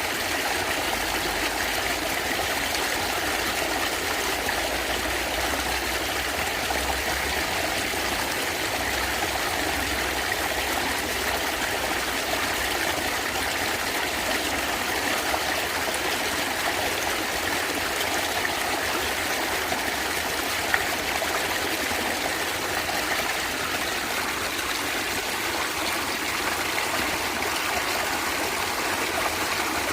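A natural stream flowing and gurgling steadily over stones, with a small click about two-thirds of the way in.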